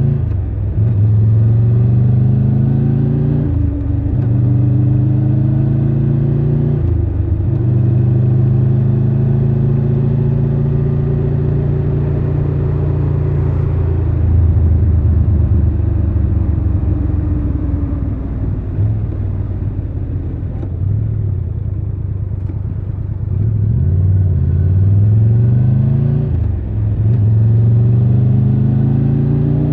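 Triumph Tiger 1200 Rally Pro's three-cylinder engine accelerating and shifting up: the pitch climbs and drops back at each of three gear changes in the first seven seconds. In the middle it eases off and slows for a long stretch, then about twenty-four seconds in it pulls away again, climbing through two more shifts near the end.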